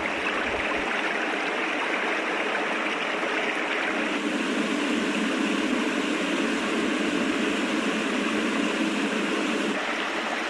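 Floodwater flowing fast, a steady continuous rush of water that gets a little quieter near the end.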